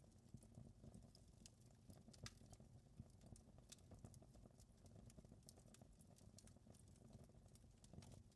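Wood fire crackling in a fireplace: faint, irregular sharp pops and snaps over a low, steady noise.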